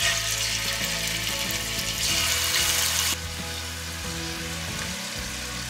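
Marinated chicken pieces sizzling as they are laid by hand into hot cooking oil in a stainless steel pot. The sizzle swells about two seconds in, is loudest for about a second, then settles back to a steady frying hiss.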